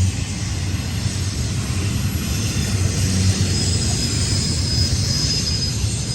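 BNSF intermodal freight train's GE diesel locomotives working hard up a steep grade, a steady low engine drone with rushing noise over it. A thin high squeal joins about halfway through.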